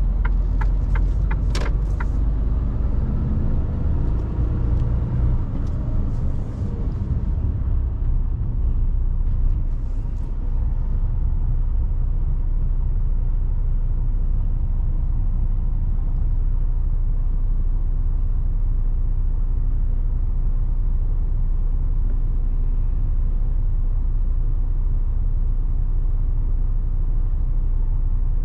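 Mercedes-Benz Actros truck driving, heard from inside the cab: a steady low engine and road rumble. A quick run of ticks comes in the first two seconds.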